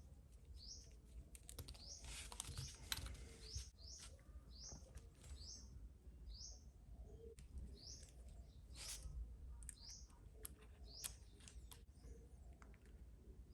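Faint, repeated short high chirps of a small bird, about one a second, with a few soft clicks in between.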